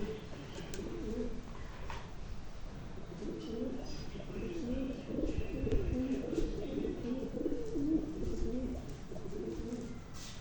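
Pigeons cooing: low, wavering coos that grow fuller from about three seconds in and fade near the end.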